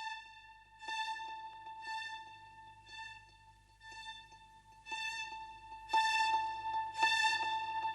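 Background music: a violin repeating one high note roughly once a second, the strokes growing louder in the last couple of seconds.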